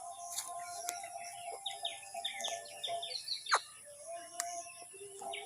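A parrot chirping: a quick run of short falling chirps, then one longer call that sweeps sharply down in pitch, with a few sharp clicks.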